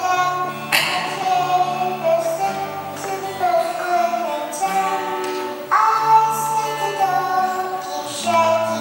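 Children singing a song in held notes over an instrumental accompaniment with a moving bass line.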